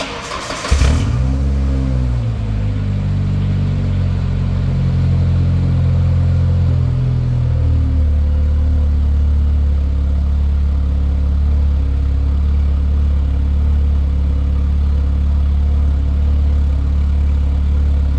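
Ford Ranger 2.5-litre four-cylinder engine through a Cherry Bomb M80 muffler and side-exit tip, starting up: a brief crank, the engine catching and flaring about a second in, then a fast idle that drops to a lower steady idle with a deep exhaust note about eight seconds in.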